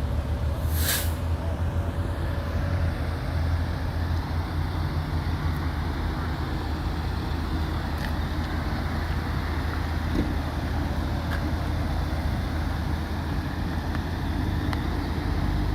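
Steady low rumble of road vehicles, with a brief sharp hiss about a second in.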